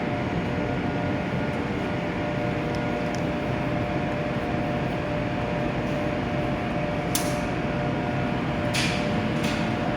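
Steady hum and cooling-fan noise of an arc-welding machine that is switched on and idling, not welding. A few short hissy sounds come near the end.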